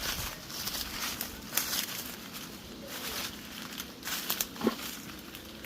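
Irregular rustling and crackling of dry leaves and undergrowth, as of footsteps through brush, with scattered small snaps.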